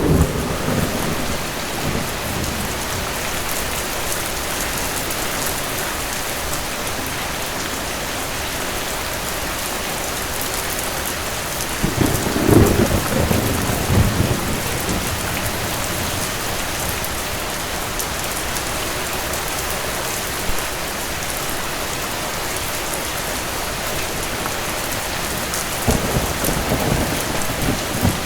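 Steady rain with distant thunder rumbling twice, about twelve seconds in and again near the end.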